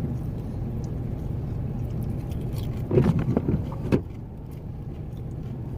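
Steady low rumble inside an idling truck's cab, with a short spell of rustling and small clicks about three seconds in that ends in one sharp click.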